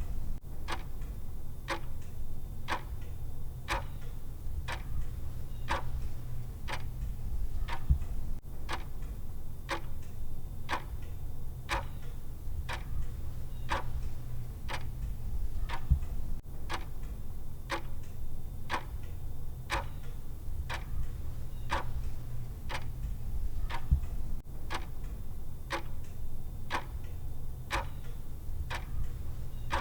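Clock tick sound effect of a countdown timer: steady, evenly spaced ticks over a low steady hum, with a slightly louder knock about every eight seconds.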